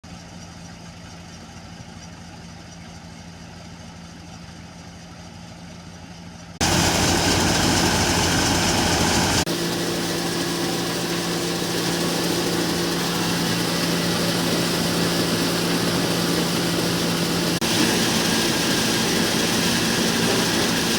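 Massey Ferguson 1035 tractor's three-cylinder diesel engine running steadily. It is fainter at first and jumps suddenly louder about six and a half seconds in, with a couple more abrupt changes in level later.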